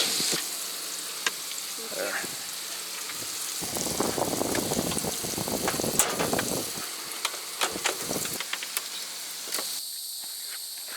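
Burger patties frying and sizzling, with scattered clicks and scrapes of a spatula turning them.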